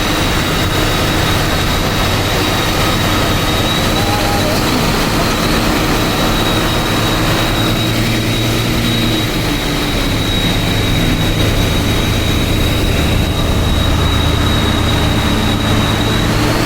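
Truck's diesel engine running steadily under way, a constant low drone with a thin high whine above it, growing slightly louder about two-thirds of the way through.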